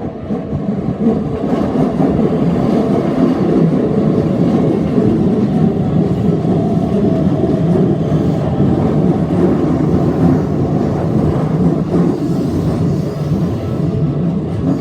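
An electric commuter train passing at slow speed, its wheels running on the rails. The noise builds over the first couple of seconds, then holds steady.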